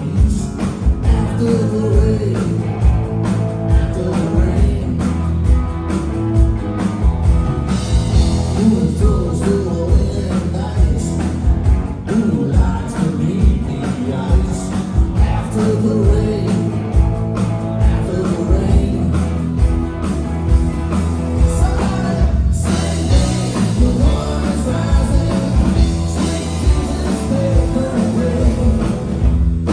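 Live rock band playing, with a singer, electric guitar and a steady drum beat, loud and recorded on a phone.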